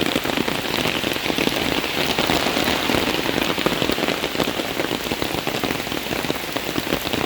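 Heavy rain falling, a dense, steady patter of drops.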